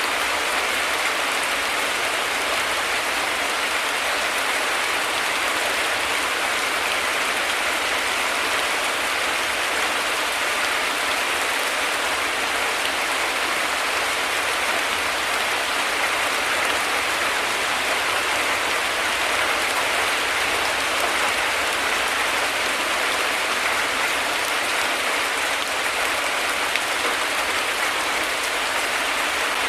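Heavy rain falling steadily, a dense even hiss of drops with no thunder or change.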